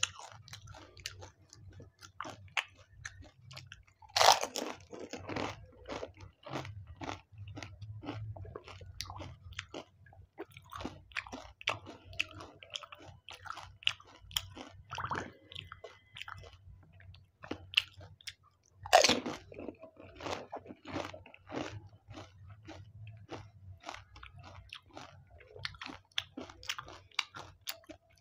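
Close-miked crunching and chewing of pani puri, the crisp hollow shells filled with spiced water. There are two loud crunching bites, about four seconds in and again about two-thirds of the way through, each followed by a run of crackly chewing, over a faint low hum.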